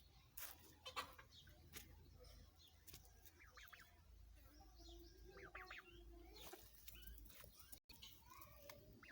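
Faint calls of hens and other birds, a few short calls standing out, with scattered light clicks over a low steady hum.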